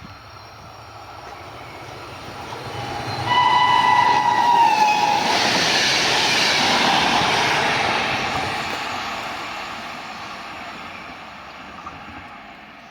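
A train passing: its horn sounds one steady note for about two seconds, starting about three seconds in and dropping in pitch as it goes by. The rush of the train swells, peaks just after the horn and then slowly fades away.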